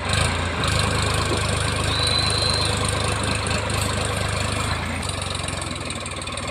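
Diesel engine running with a steady low rumble. It is louder for most of the first five seconds, then eases off slightly.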